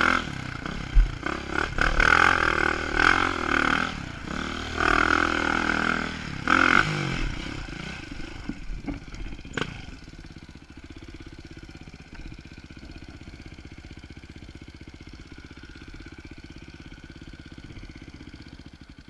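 Dirt bike engine revving in several short rising and falling bursts, then dropping to a quieter, steady idle for the second half.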